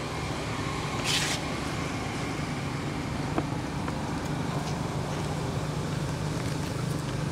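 Steady low mechanical hum like a motor vehicle engine running, with a brief hiss about a second in and a few faint clicks.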